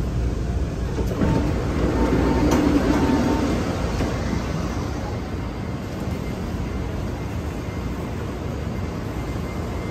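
Train running on rails: a steady rumble and hiss that swells about a second in, with a faint whine, and eases off after about four seconds.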